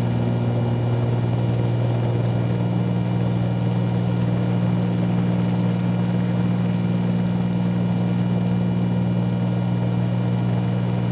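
Cabin sound of a 1974 Cessna 310Q's twin piston engines and propellers running steadily during the climb: a constant low hum that holds one pitch throughout.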